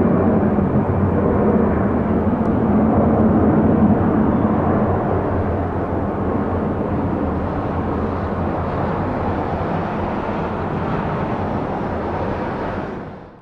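Jet airliner engines, a loud steady rush that slowly eases and then fades out quickly near the end.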